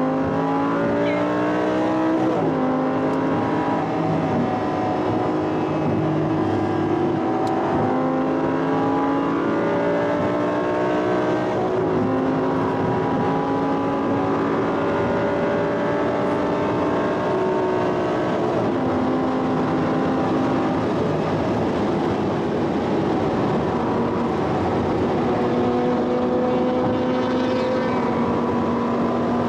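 Audi R8 engine heard from inside the cabin under hard acceleration at high speed. The engine note climbs slowly through each gear and drops in pitch at each of several upshifts.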